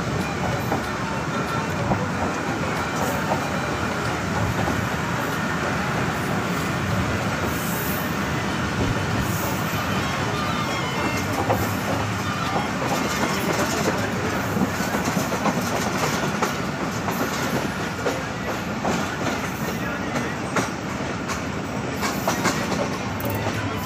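Passenger train running along the track, heard from inside a carriage: steady wheel-on-rail noise with scattered clicks.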